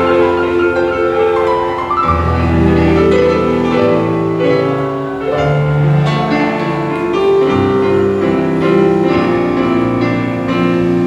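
Live band music: a slow keyboard intro in a piano sound, with held notes and a deep bass coming in about two seconds in.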